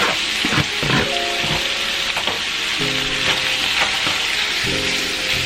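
Butter sizzling steadily in a hot pan with lobster tail warming in it, with a few short clicks of a utensil working the pan.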